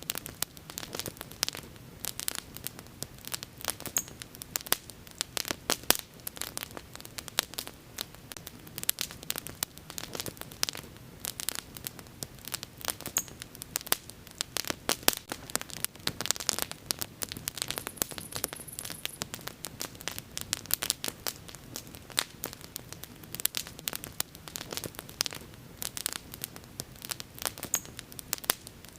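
Wood fire burning with frequent irregular sharp crackles and pops over a soft steady hiss.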